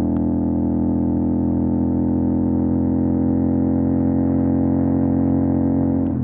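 CFMOTO 450 SR parallel-twin engine running through an MSH G6 full-system exhaust, held at steady revs while riding, with the pitch shifting right at the end.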